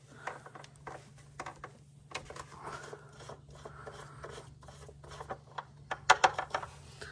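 Handling noises: scattered clicks, rubs and scrapes, with a cluster of sharp clicks about six seconds in, over a faint steady low hum.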